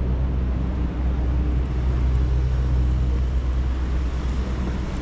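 A steady low mechanical hum with a few fixed humming tones, over a street background.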